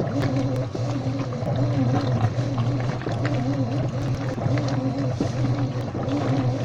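Washing machine running: a steady motor hum with a tone that rises and falls over and over, and light clicks and knocks.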